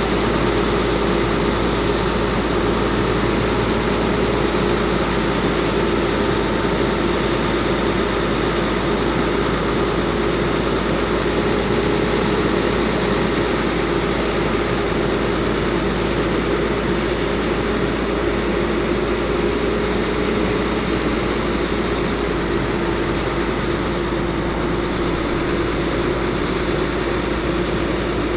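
Caterpillar C7 diesel engine of a Ford F750 truck running steadily at constant speed, with a steady hum over the engine noise.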